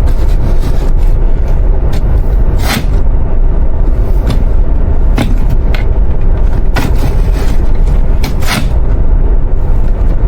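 Loud, steady low rumble of an airliner cabin, with a few short clicks and knocks scattered through it.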